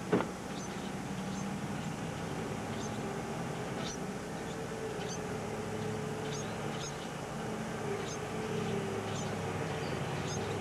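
Nestling birds giving short, high cheeps at irregular intervals, over a steady low hum. A single sharp knock sounds right at the start.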